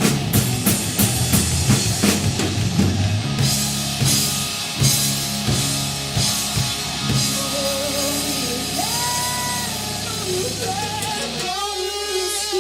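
Live rock band with drums and electric guitar. About halfway through, the drums stop and the guitar carries on alone with long held notes that bend up and down in pitch.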